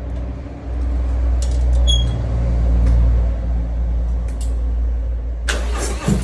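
Harley-Davidson motorcycle engine running in a low, steady rumble that grows louder about a second in, with a few light clicks. Near the end a sudden louder rush of noise comes in.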